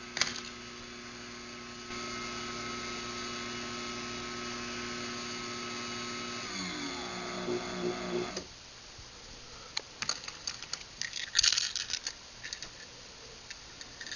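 Craftsman garage door opener's motor running steadily as it drives the door open, then winding down with a falling pitch and stopping about eight seconds in. Scattered clicks and rattles follow.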